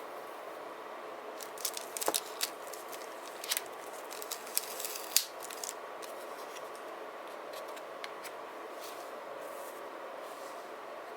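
Paper and sticker handling: a cluster of crisp snips, clicks and rustles for a few seconds, then only a steady faint hiss with a light hum.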